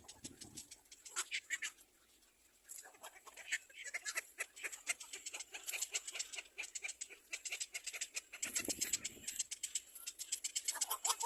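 Nestlings chirping in the nest, a fast run of short, high calls, with a brief lull about two seconds in.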